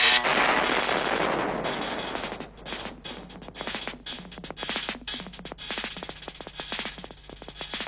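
Cartoon soundtrack music and effects: a noisy swish that fades away over the first two seconds or so, then a fast, uneven run of dry percussive clicks and taps.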